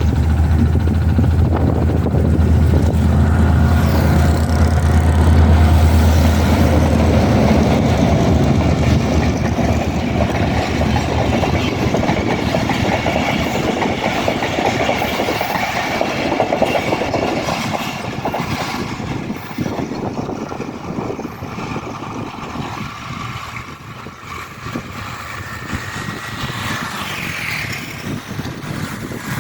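GMCU-15 diesel locomotive passing with a deep engine drone over the first several seconds. The passenger coaches follow, rolling by with a rapid clatter of wheels over rail joints that slowly fades as the train moves away.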